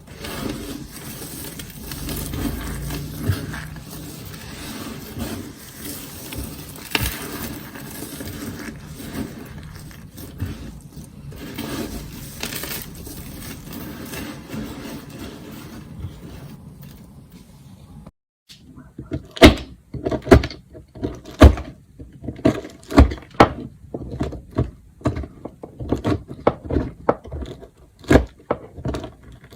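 Blade cutting soap: a steady scraping and shaving for about eighteen seconds, then after a short break a run of sharp cracks and snaps as the blade chops through the soap into cubes.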